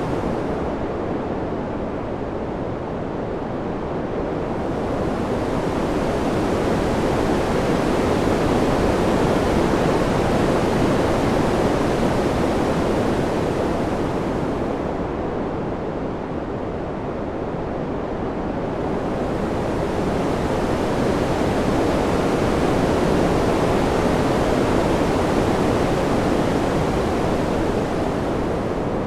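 Wind blowing steadily as a full hiss with no distinct gusts or whistles. It slowly swells and eases, growing brighter and slightly louder in long waves about every thirteen seconds.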